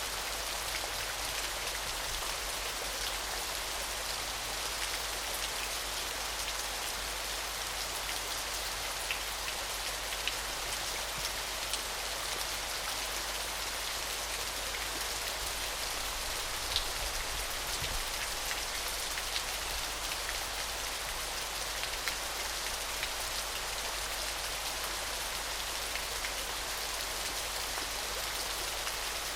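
Gentle small waterfall: a steady, high hiss of falling water with scattered light splashes and drips.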